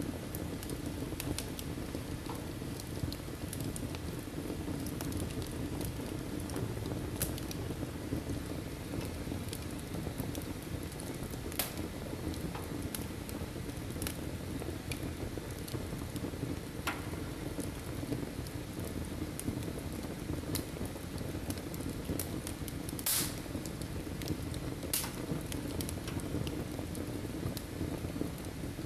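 Wood fire burning in a fireplace: a steady low rush of flames with scattered sharp crackles and pops, the loudest about 23 seconds in.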